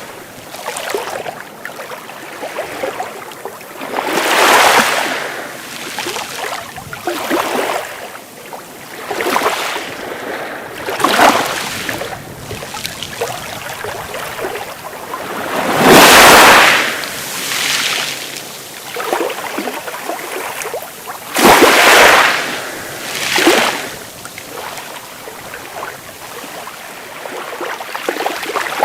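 Sea waves breaking and washing up the beach, a surge of surf every few seconds between quieter stretches of wash, the loudest about halfway through and again about two-thirds of the way in.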